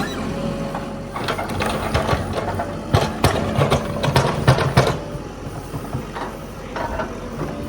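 Mahindra backhoe loader's diesel engine running steadily, with a busy run of metallic clattering and knocking from about one to five seconds in as the machine works.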